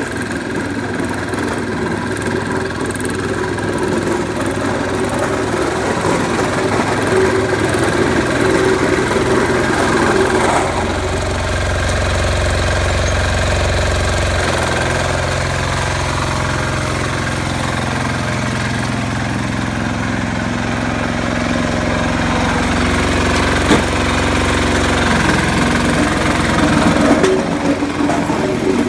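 Sears 8XL diesel tractor engine running steadily while plowing snow, its note shifting as the load changes. There is one sharp knock about two-thirds of the way through.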